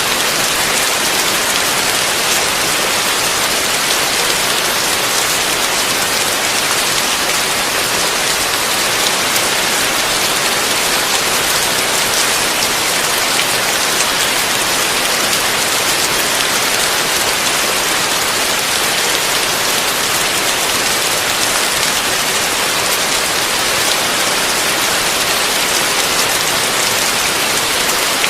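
Heavy rain falling steadily on a roof: a dense, even hiss of many fine drops, with no thunder.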